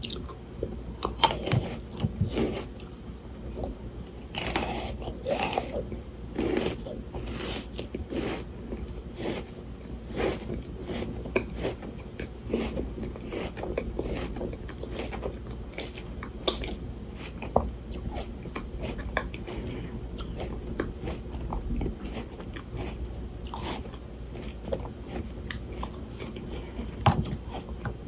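Close-up eating sounds: frozen Shine Muscat grapes bitten and chewed, with repeated icy crunches and chewing between bites.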